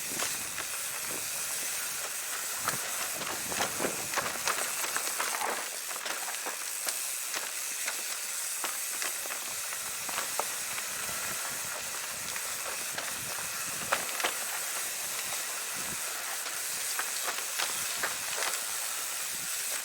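Mountain bike rolling along a dirt or gravel trail: a steady hiss of tyre and trail noise with scattered clicks and rattles from the bike.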